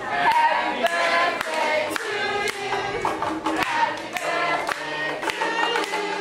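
A group of children singing together, with hand drum strikes and clapping keeping a steady beat.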